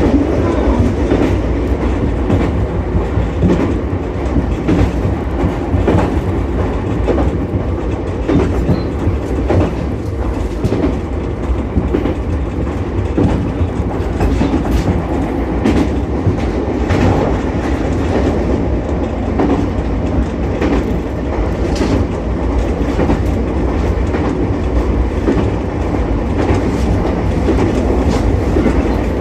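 An Ichibata Electric Railway 7000-series electric railcar running along the line: a steady rumble of wheels on rail, with scattered clicks as it passes over rail joints.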